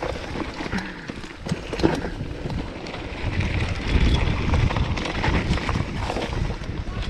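Wind buffeting the microphone outdoors, a low rumble that grows heavier about three seconds in, with scattered short knocks and crunches.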